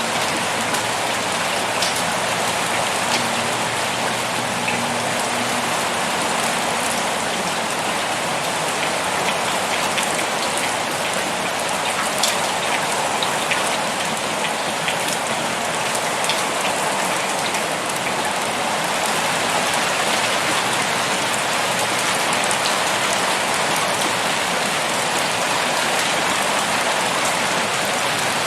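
Heavy rain pouring steadily, a dense hiss full of individual drop impacts.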